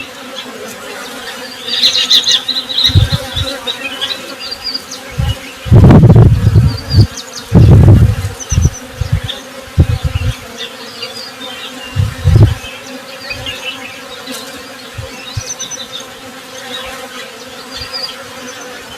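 Honey bees buzzing in a steady drone, with short high bird chirps scattered throughout. Several loud low rumbling bursts cut in, the strongest about six and eight seconds in.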